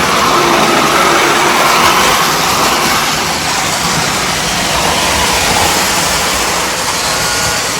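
Model trains running on the layout's track, a loud steady rumble of wheels and motors.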